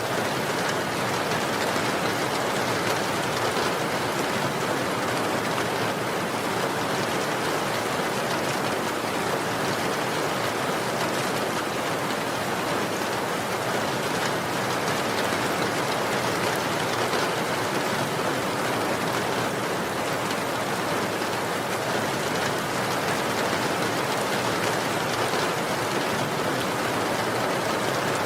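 Steady rain falling, an even hiss of many drops on a surface, with no breaks or changes.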